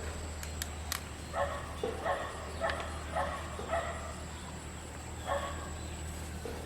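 A dog barking: a quick string of short barks, then one more a couple of seconds later.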